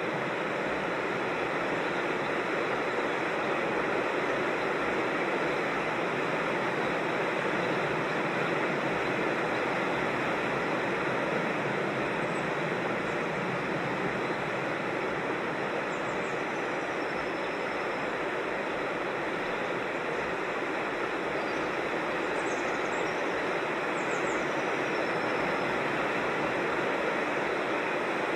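Steady rushing of a creek's flowing water. A few high, thin bird chirps slide downward about midway and again near the end.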